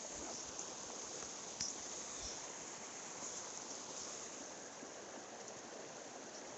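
Mountain stream water running over rocks, a steady even rush.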